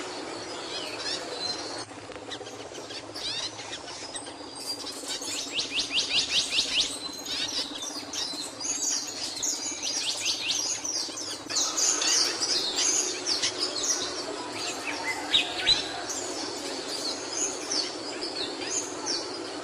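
A capuchino singing: a fast run of repeated high sweeping notes a few seconds in, then a long, varied string of chirps and twitters. A steady low hum runs underneath.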